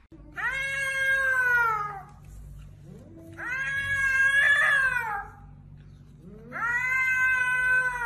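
A flat-faced white-and-grey cat meowing three times: long, drawn-out calls of about two seconds each that drop in pitch at the end.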